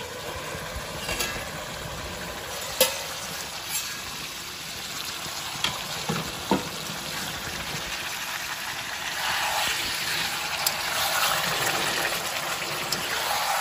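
Pork curry frying in masala and its own fat in a steel kadai: a steady sizzle with a few sharp metal clinks. From about halfway through it grows louder as a metal spatula stirs and scrapes the pan.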